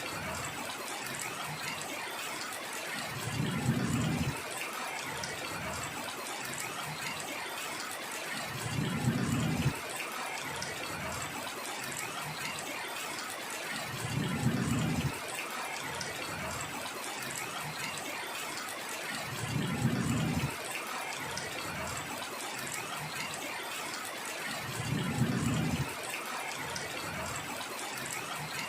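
Heavy rain falling steadily, with a low rumble that swells and fades about every five seconds.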